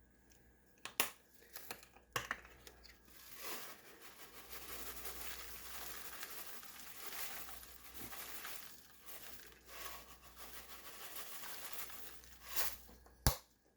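Crinkling and rustling of packaging for several seconds, with a few sharp clicks before and after.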